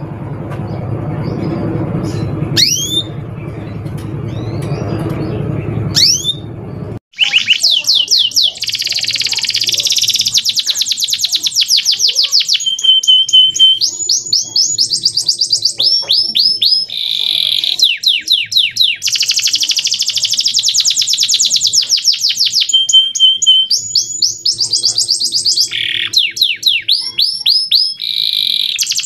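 Male canary singing a long, fast song of rolling trills: rapid runs of repeated downward-sweeping whistled notes, alternating with a few held steady notes and short pauses. The song cuts in abruptly about seven seconds in, after a stretch of low background noise with a few scattered short chirps.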